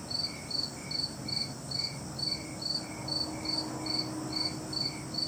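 An insect chirping in a steady, even rhythm, about three short high chirps a second.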